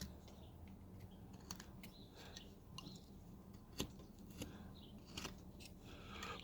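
Carving knife making small cleaning-up cuts in wood: faint, crisp snicks, scattered about one a second.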